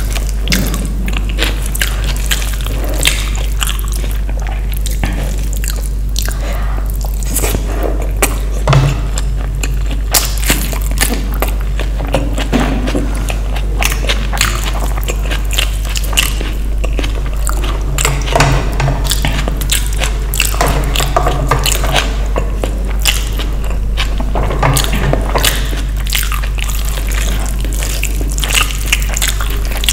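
Close-miked eating: chewing and biting with many wet mouth clicks and smacks, over a steady low hum.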